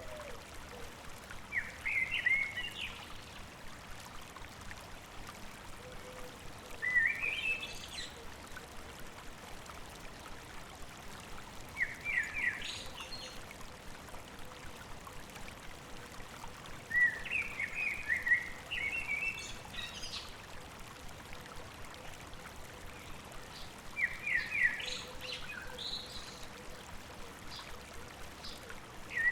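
A songbird repeating a short phrase of quick high notes about every five seconds, over the steady rush of a river.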